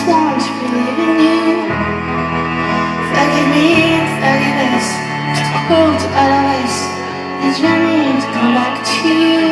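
Live pop band performance: a woman singing a slow, wavering melody over sustained low chords that change about every two seconds.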